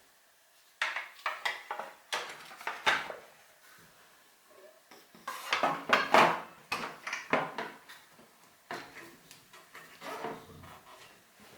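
Metal tools and parts clinking and rattling as they are handled, in three bursts of quick knocks.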